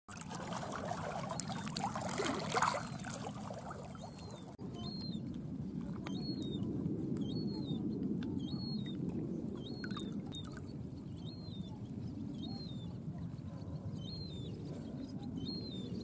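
A bird repeats a short, high, whistled call about once a second over the steady lapping of water. A louder rush of noise fills the first few seconds.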